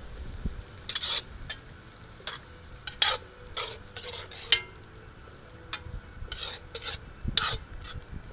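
A spoon stirring and scraping around a pan of simmering wine sauce with sun-dried tomatoes, in about a dozen irregular strokes with a few sharper clicks against the pan, over a low sizzle.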